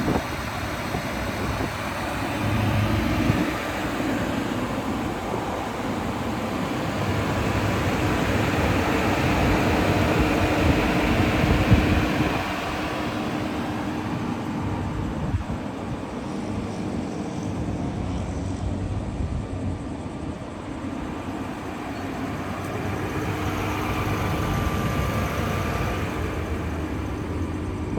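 Vehicle traffic noise: a steady rush that swells up and fades away twice, like cars going by.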